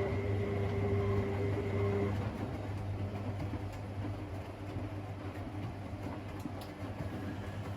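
Washing machine running: a steady motor hum under a rumbling churn, with a higher whine that stops about two seconds in.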